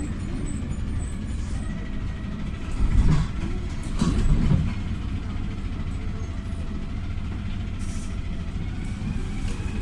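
PAZ 320414-04 Vector city bus with a YaMZ-53423 gas engine, driving along and heard from inside the cabin as a steady low engine and road rumble. Two louder bumps come about three and four seconds in.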